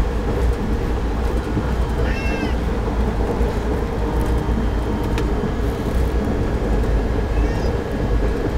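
Passenger train running on the rails, a steady rumble from inside the carriage. Two short, high, wavering cries rise over it, about two seconds in and again near the end.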